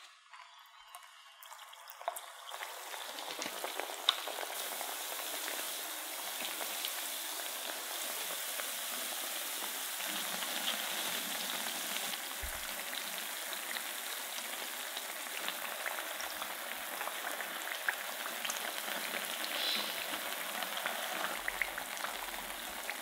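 Potato-and-cornstarch snack pieces deep-frying in a pan of hot oil: a steady sizzle with scattered sharp pops and crackles. It starts quietly and builds over the first few seconds as the pan fills with pieces, then holds steady.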